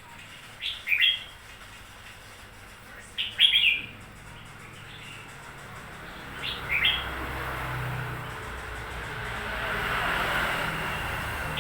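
Red-whiskered bulbul singing short, quick phrases of a few bright notes, three times, a few seconds apart. A broad rushing background noise swells in the second half and eases off near the end.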